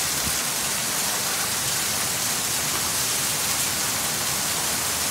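Heavy thunderstorm downpour: a steady hiss of rain pouring down.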